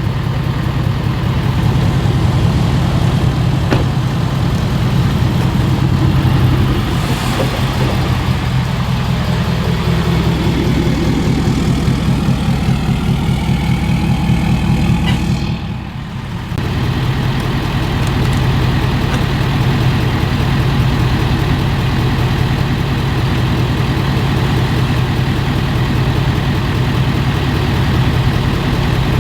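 Truck engine running steadily with a low, even hum, with a brief drop in level about sixteen seconds in.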